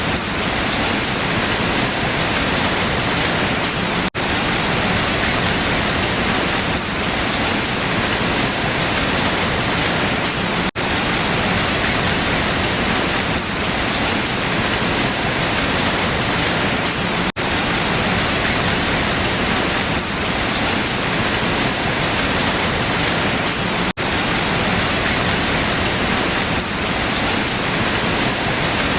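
Steady rain falling on leaves, an even hiss of drops. Very brief dropouts recur about every six and a half seconds.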